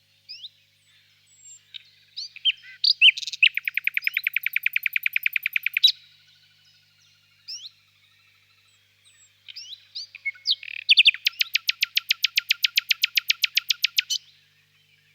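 Nightingale singing: two phrases, each opening with a few short whistled notes and breaking into a fast run of repeated notes, about ten a second, held for two to three seconds. Other birds chirp faintly between the phrases.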